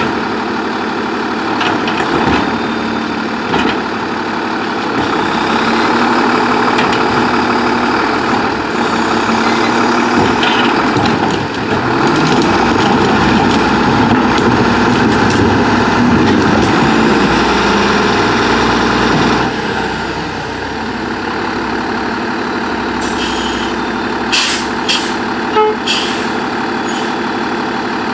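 Freightliner Condor garbage truck with an Amrep manual side-loader body running at work. Its engine comes up louder for a stretch and eases off about two-thirds of the way through. A few sharp clanks come near the end.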